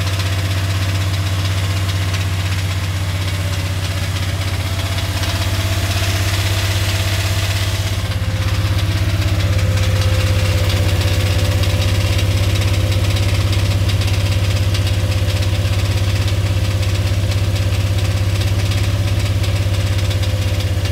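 Dodge 5.9L 360 Magnum V8 running steadily at a raised idle of around 2000 rpm, with a rapid clattering tick over the engine note. The tick comes only when the engine is unloaded and is heard most through the transmission bell housing and block, not the oil pan. The owner has ruled out the rockers and a dead lifter.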